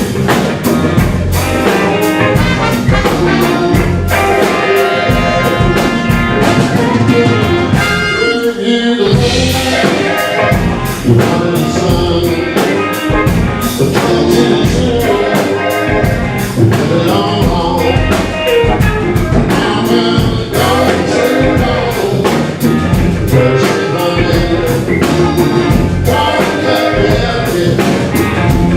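Live blues band with a horn section playing an instrumental passage: tenor saxophone and trumpet over drums, bass, guitars and keyboards. The bass and drums drop out for about a second some eight seconds in, then the band comes back in.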